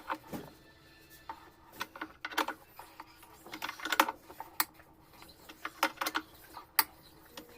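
Parts of a Consul Facilite washing machine's mechanism clicking and knocking as they are handled and fitted together, in irregular sharp strokes, some in quick clusters.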